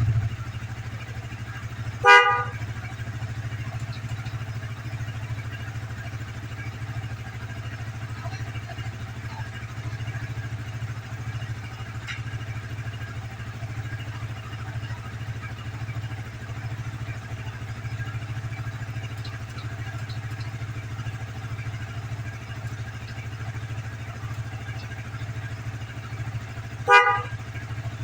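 Motorcycle engine idling steadily, with two short toots of its newly fitted horn, one about two seconds in and one near the end.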